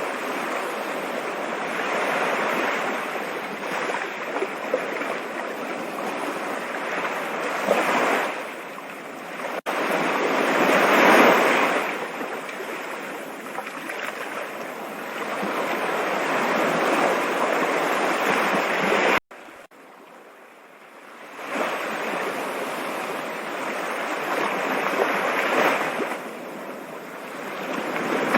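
Rushing water, a steady hiss that swells and eases every few seconds. It cuts off sharply twice, about ten and nineteen seconds in, and is quieter for a couple of seconds after the second break.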